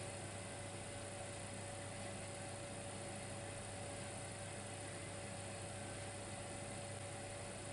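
Dimplex electric fireplace running with a steady electrical hum and a constant mid-pitched tone over a soft hiss.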